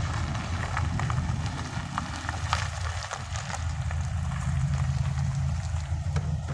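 A vehicle engine running with a steady low hum, under scattered light crackles and ticks.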